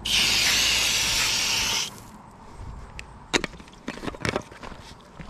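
A loud, steady hiss lasting about two seconds that starts and cuts off abruptly. It is followed by a few short knocks and clunks.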